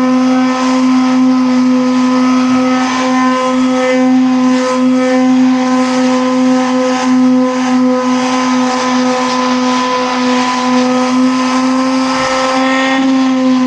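A motor running at a steady pitch, a loud even hum that wavers slightly near the end.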